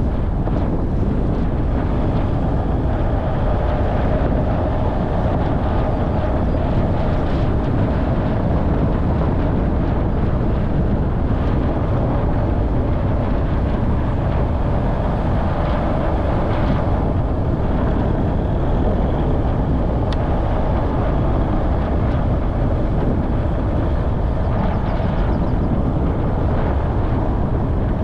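Off-road vehicle driving, a steady engine drone under a loud, even rumble.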